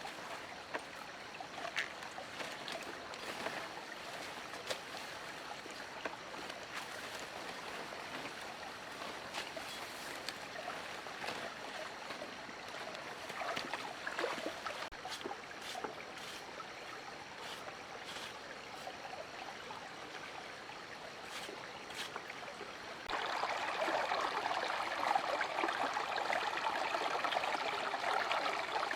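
Running, trickling water with a few light clicks and knocks scattered through it. The water sound steps up suddenly, becoming louder and fuller about two-thirds of the way in.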